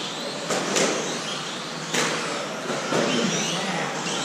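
Brushless electric 1/10-scale RC racing trucks running on the track: faint rising and falling motor whines over a steady hiss of tyres, with a few sharp knocks, about half a second, just under a second and about two seconds in.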